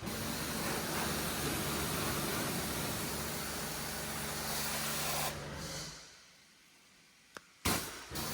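Hose spraying water onto a car at low pressure, rinsing off loosened dirt; the steady spray dies away about six seconds in. A steady low hum follows near the end.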